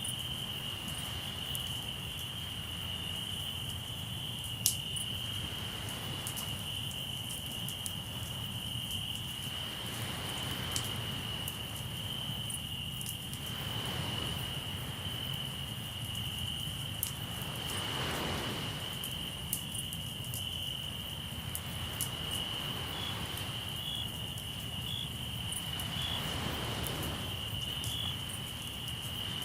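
Crickets chirping in a steady high trill over a crackling campfire, with scattered sharp pops and one louder pop near the start. Sea waves wash in and out in slow swells every few seconds.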